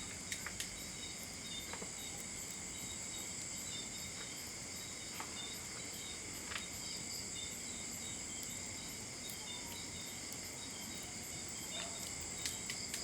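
A steady chorus of crickets, with a wood fire giving a sharp crackling pop now and then: a few in the first second, scattered ones after, and a small cluster near the end.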